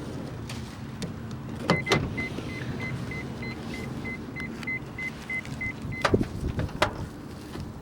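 An electronic beep repeating about three times a second for roughly four seconds, beginning and ending with sharp clicks, over a steady low rumble like an idling engine.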